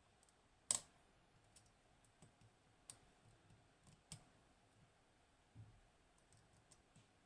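Small metallic clicks of lock picks working the pins of a Hori Trident high-pin-count lock with T-spool drivers: one sharp click under a second in, then a scatter of fainter ticks.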